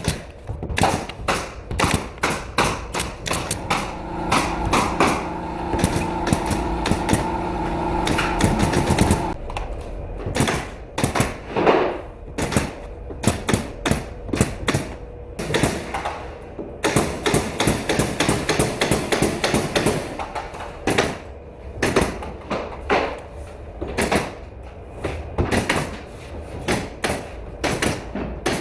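A rapid, irregular run of sharp clacks and knocks from carpentry work, at a few strikes a second. A steady machine hum joins from about four seconds in and stops at about nine seconds.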